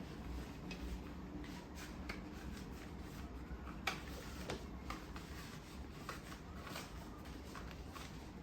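Light handling sounds from cleaning: scattered small clicks and taps with soft rustling, the sharpest tap about four seconds in, and no vacuum cleaner running.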